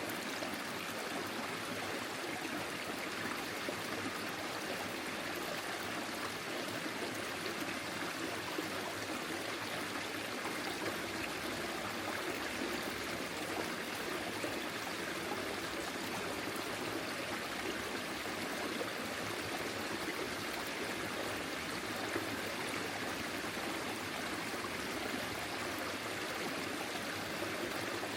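A small forest stream flowing and trickling steadily over its bed, an even, unbroken rush of water.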